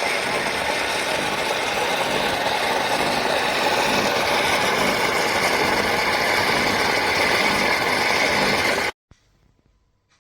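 Cecotec Power Instant-ccino espresso machine running: a loud, steady mechanical buzz with a steady whine. It cuts off suddenly about nine seconds in.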